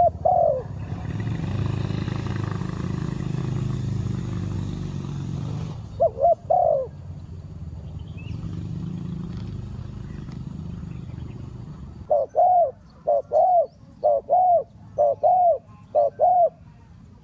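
Spotted dove cooing in short, deep, arched notes. A couple come near the start, three at about six seconds, then a run of about ten coos in pairs over the last five seconds. A low rushing noise sits under the first part.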